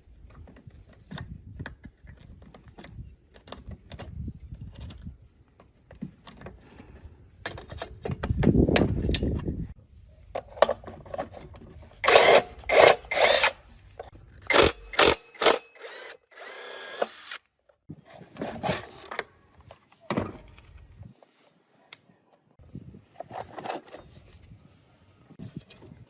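Workshop tool work on a concrete cutter: scattered clicks and knocks, a cluster of short power-drill bursts near the middle, and a brief hiss just after.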